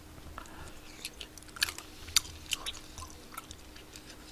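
A person chewing spicy tteokbokki rice cakes close to the microphone: irregular wet mouth clicks and smacks, with a faint steady hum underneath.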